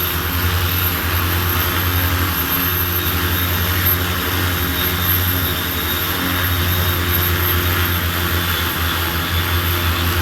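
15-litre crop-spraying multirotor drone in flight, its rotors giving a steady low hum with a rushing hiss.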